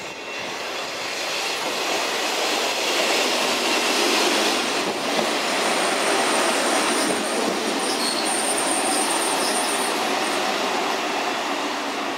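Kashima Rinkai Railway 6000 series diesel railcar running into the station and passing close by, its wheels rolling over the rails. It gets loudest about four seconds in as it goes past, and a thin, high squeal sounds through the middle of the passage as it slows to stop.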